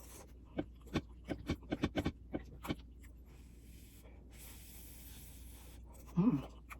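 Eating at the table: a quick run of light clicks and taps of a utensil against a dish, then a soft breathy hiss, and a brief hum of voice near the end.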